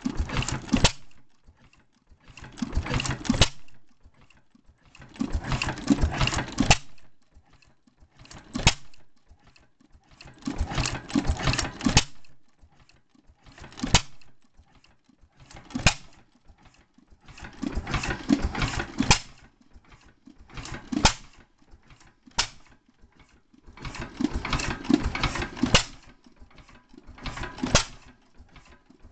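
Old Masure et Deltour stationary gas engine running under its governor: bursts of rapid firing strokes lasting a second or two, separated by coasting spells of several seconds broken by a single stroke. The on-off rhythm shows the governor cutting the firing in and out to hold speed.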